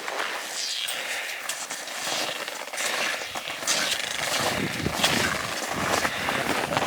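A hiker's footsteps on a winter mountain trail, with wind buffeting the microphone in uneven gusts.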